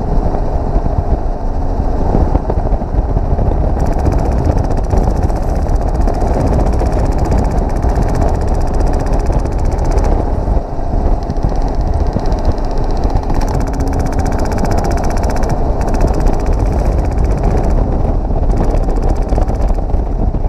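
Helicopter engine and rotor noise with wind buffeting. Mixed in are stretches of rapid full-auto rattle from an HPA-powered airsoft RPK.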